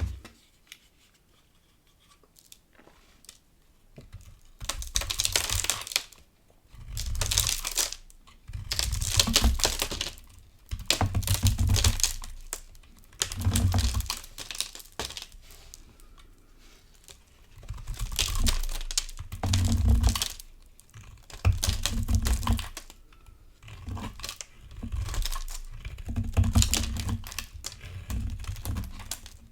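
Dry bar soap being carved, crunching and crackling in about ten strokes of a second or two each, starting about four seconds in.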